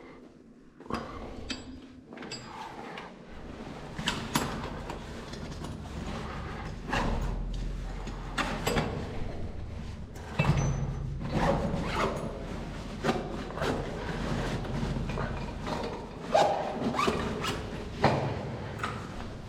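Repeated knocks and clanks of parts and tools being handled during engine pump repair work, with a low hum at times.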